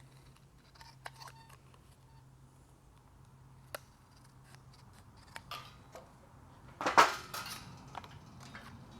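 Scissors snipping through poster board in short, scattered cuts, with the loudest burst of cutting and handling about seven seconds in.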